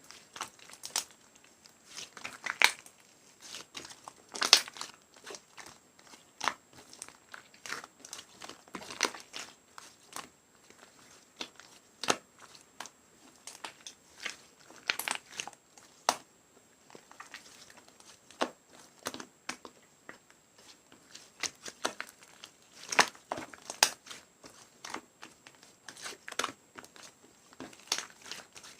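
Purple slime being squished and worked by hand, making irregular sharp clicks and pops.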